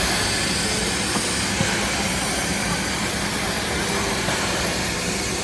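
Steam train running, a steady rumble and hiss.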